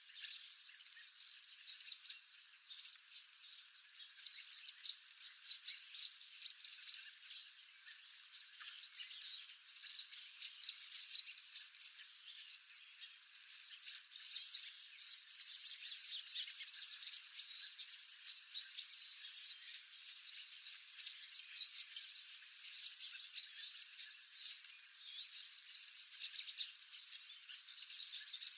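Many birds chirping and calling at once in a dense, continuous chorus of short high chirps.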